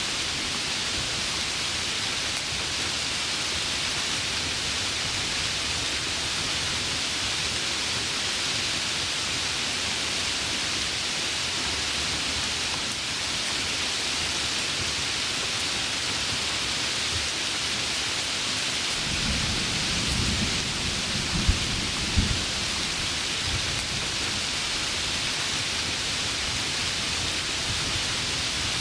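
Heavy rain falling steadily, with a low roll of thunder about two-thirds of the way through that carries two sharp cracks.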